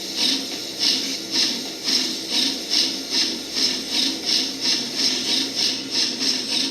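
Steam locomotive chuffing in an even rhythm of hissing puffs, about two or three a second, getting slightly quicker toward the end.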